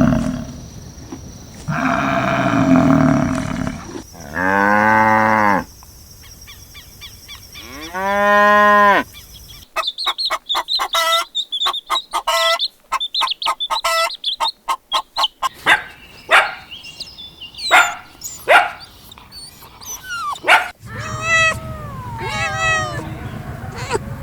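A string of different animal calls cut one after another: a few long pitched calls with arching pitch in the first half, then a run of quick high chirps, sharp short calls, and warbling high calls near the end.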